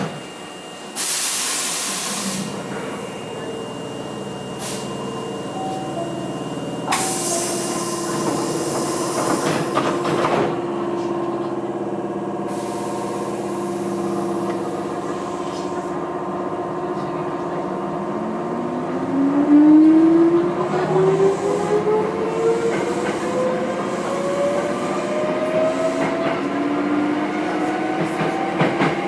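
Inside a Nose Electric Railway 5100 series electric train (ex-Hankyu 5100, resistance control), two bursts of compressed-air hiss are heard early on. From about two-thirds of the way in, the traction motors give a whine that rises steadily in pitch as the train pulls away from the station.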